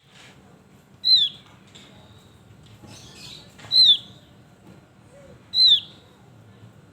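Javan heleia (opior jawa) calling: three loud, short whistles, each sliding down in pitch, about two seconds apart, with faint chirps between them.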